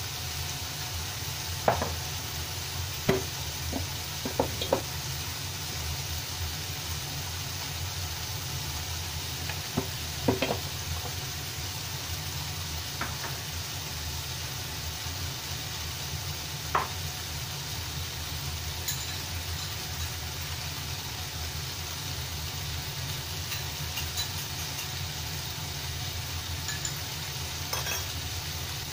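Lotus root and wood ear fungus frying quietly in a non-stick pan, a steady faint sizzle over a low hum. A handful of sharp clicks and taps, most in the first few seconds and a few more later on.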